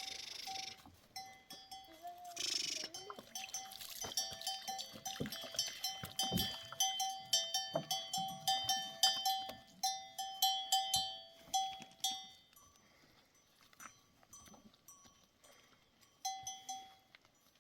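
Bells on grazing sheep or goats clanking irregularly as the animals move. The strikes come thick and fast until about twelve seconds in, then thin out, with a short burst near the end.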